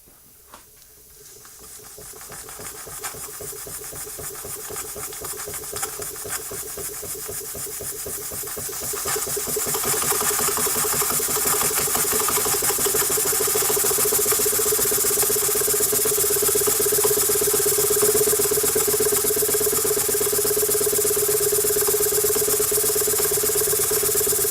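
Model single-cylinder steam engine speeding up as its throttle is opened. Its exhaust beats quicken into a fast, even patter and grow louder over about ten seconds, then hold steady at high speed, with a steady high tone and a rising hiss of steam over them.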